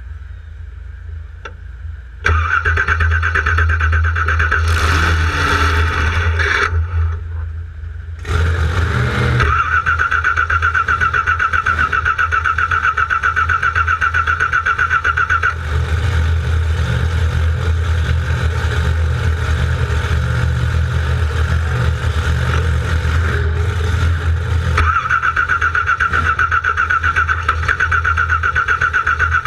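Car engine cranking on its starter motor without catching: a fast pulsing whir. It runs for a few seconds, stops briefly, then cranks again at length.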